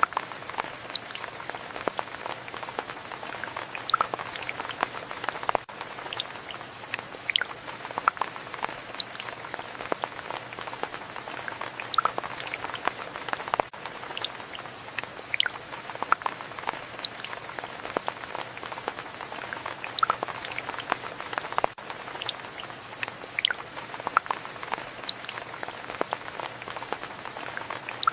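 Steady rain, a continuous hiss with many separate drops ticking and pattering on a surface.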